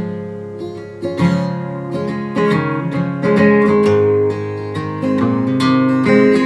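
Acoustic guitar strummed and picked, ringing chords that change every second or so, with no singing.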